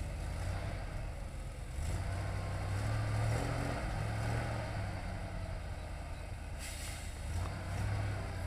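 ZIL-131 army truck's V8 petrol engine working under load, the revs climbing about two seconds in, easing off and rising again near the end. A short hiss about two-thirds of the way through.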